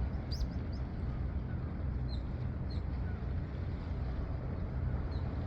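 Steady low seaside rumble with a few short, high bird chirps about two seconds in, again shortly after, and near the end.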